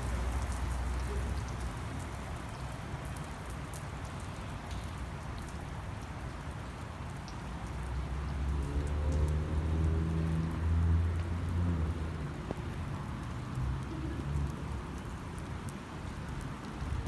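Steady rain falling, with scattered drops ticking sharply. A low rumble swells for a few seconds around the middle, then fades.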